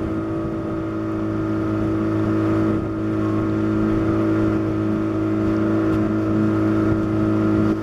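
Boat's outboard motor running steadily at a constant speed, a loud, even drone.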